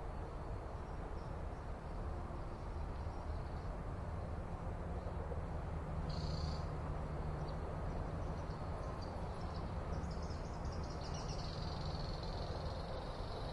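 Faint high bird chirps and a short trill over a steady low rumble of outdoor background noise.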